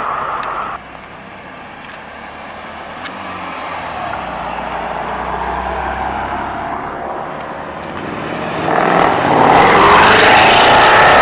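Car engines accelerating out of a car park. About eight seconds in, one car revs hard close by and gets much louder, its engine note climbing as it pulls away.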